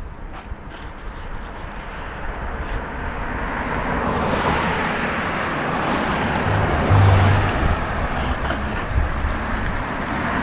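Wind and rolling noise on a helmet-mounted camera as a bicycle coasts downhill, a rushing hiss that grows louder over the first few seconds and then holds, with low buffeting rumbles.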